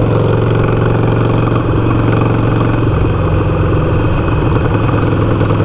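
Harley-Davidson Iron 883's air-cooled V-twin engine running steadily while the motorcycle is ridden at cruising speed.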